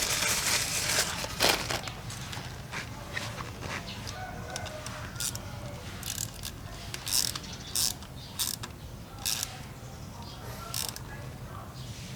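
Small metal parts and hand tools clicking, tapping and clinking at irregular intervals as the rocker arms, rocker shafts and cam retainer plate are refitted to a Honda Wave 125 motorcycle cylinder head around an aftermarket camshaft.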